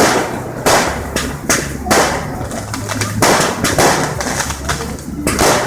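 Fireworks display going off: a steady run of bangs and crackles, about one or two a second.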